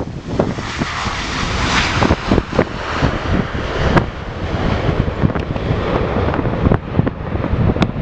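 Jet airliner engines running, heavily buffeted by gusty wind on the microphone, with irregular low thumps from the gusts throughout.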